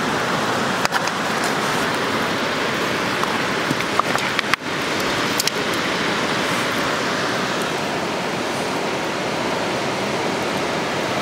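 Steady rushing of waves on the beach, with a few faint clicks.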